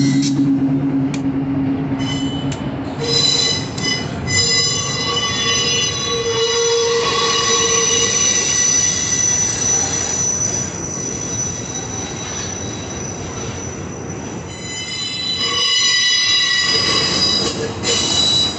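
Train wheels squealing against the rails as cars roll through the yard: several high-pitched steady squeals that set in about three seconds in, ease off in the middle and swell again near the end, over a steady rolling rumble. A low steady tone is heard in the first few seconds and fades out.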